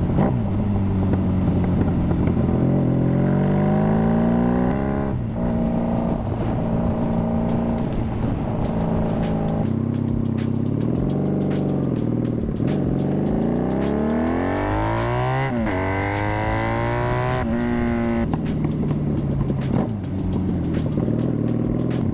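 Honda Magna V4 motorcycle engine pulling through the gears. Its pitch climbs and then drops at each shift, about five times, with steady cruising stretches between.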